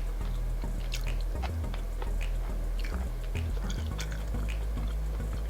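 Close-miked chewing, with small wet mouth clicks scattered through it, over a low background hum.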